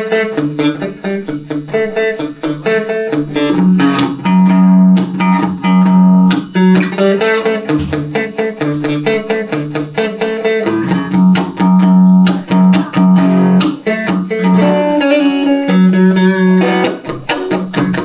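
Electric guitar, a Telecaster played through a Roland JC-120 amp, playing an instrumental passage of picked notes and chords over repeated low bass notes. It comes in suddenly and loud out of near quiet.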